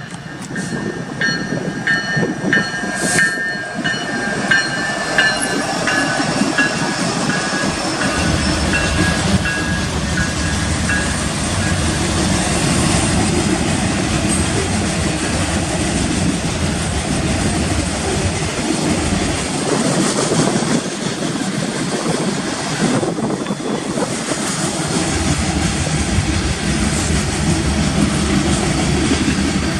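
A Union Pacific freight train passing, led by EMD SD70AH and SD70ACe diesel-electric locomotives with 16-cylinder two-stroke engines. High steady tones sound over the first several seconds and fade. About eight seconds in, a heavy low rumble builds and continues as the train rolls by.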